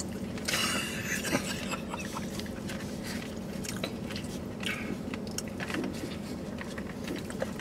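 Close-up chewing and biting into rotisserie chicken, with small scattered crackles and clicks from the food being handled. A faint steady low hum runs underneath.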